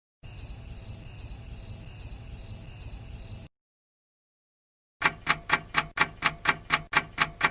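Cricket chirping sound effect: a high, shrill trill in even pulses, about two and a half a second, that stops suddenly after about three seconds. After a short silence, a rapid even series of sharp clicks, about five a second, starts near the end.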